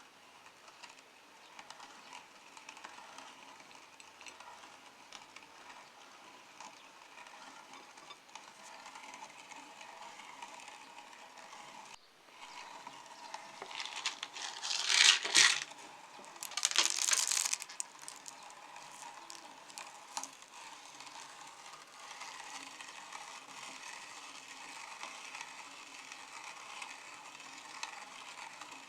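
Meat grinder running and crushing hard-shelled M&M's candies, a steady crunching and rattling. About halfway through come two much louder, rattling bursts, a second or so apart.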